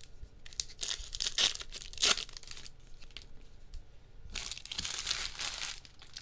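Plastic and foil card-pack wrapping from a 2022 Topps Chrome baseball blaster box crinkling and being torn open in irregular rustling bursts, strongest about a second in and again for the last two seconds.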